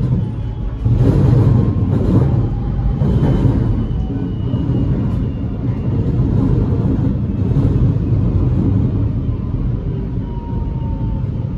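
Inside a Metro X'Trapolis electric train slowing along a station platform: a steady low rumble of wheels on rail, louder for the first few seconds, with a faint whine falling in pitch near the end as the train slows.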